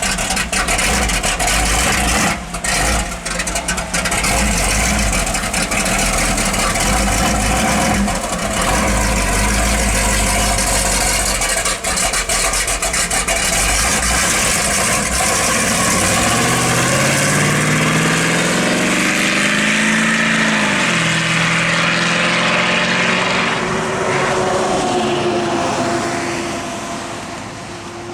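392 Chrysler Hemi V8 in a 1953 Ford panel truck running loud through open electric exhaust cut-outs with a heavy, low rumble. About two-thirds of the way through the revs climb and fall back, and near the end the sound fades as the truck moves off.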